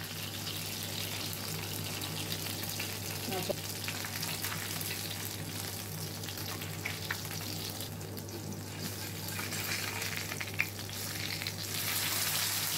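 Masala-coated parrot fish pieces shallow-frying in hot oil, sizzling and crackling steadily, with a few light clicks. The sizzle grows louder near the end.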